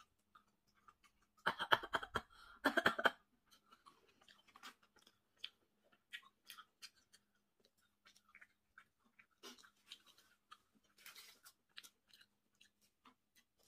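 Close-miked eating sounds of a person chewing seafood: a louder patch of rapid crackly clicks about a second and a half in, lasting under two seconds, then soft scattered mouth clicks of chewing.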